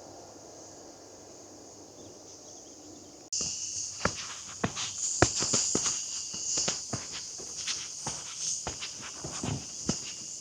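Footsteps crunching along a path under a steady, shrill chorus of insects. For the first three seconds there is only a faint low rumble, then the footsteps and insects cut in suddenly.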